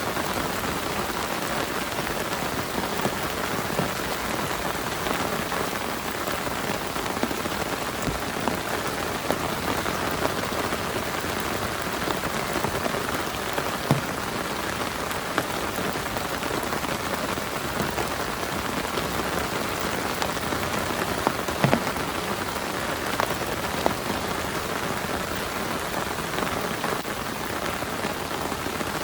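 Heavy rain falling steadily, with occasional louder individual drops striking a surface, a few near the middle and two-thirds of the way in.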